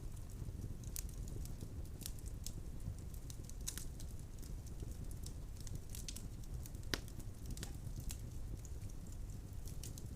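Wood fire burning in a fireplace: a steady low rumble of the flames with scattered crackles and pops of the burning logs, one sharper pop about seven seconds in.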